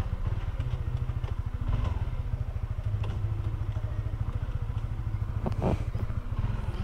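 Sport motorcycle's engine running steadily at low revs, an even low putter, with a brief higher sound near the end.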